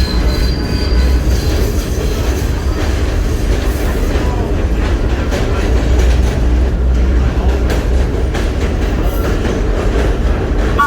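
Vintage R1-R9 subway train running on the rails: a steady, loud low rumble of wheels and running gear, with a faint high wheel squeal in the first second and scattered clicks.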